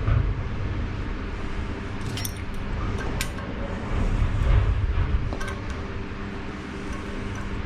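A few light metallic clinks of small metal parts or tools being handled, over a steady low hum and rumble.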